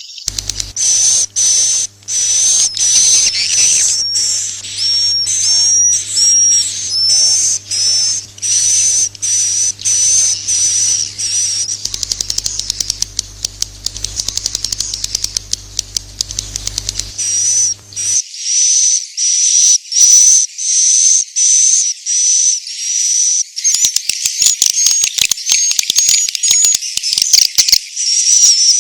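Edible-nest swiftlet calls from a played-back 'inap' roosting-call lure track: high-pitched chirping twitters repeating about twice a second, with stretches of rapid clicking mixed in. A low hum underneath cuts off suddenly about two-thirds of the way through.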